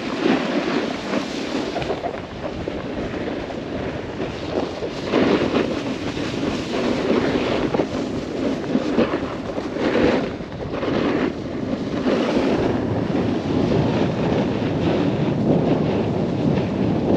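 Snowboard sliding and carving over snow, a continuous scraping hiss that swells and eases with each turn, with wind rushing over the helmet camera's microphone.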